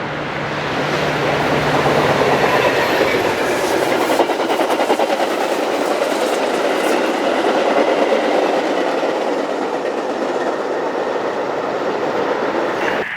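A train passing close at speed, its wheels rumbling and clicking over the rails. It grows louder over the first two seconds, holds steady, and cuts off abruptly at the end.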